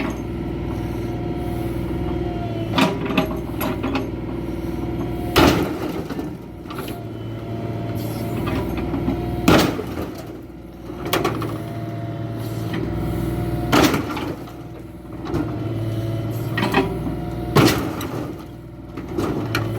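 A heavy vehicle's engine running steadily, with a loud bang about every four seconds and smaller knocks between.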